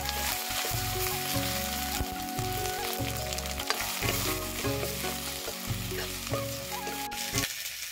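Food frying and sizzling in a pan, over background music.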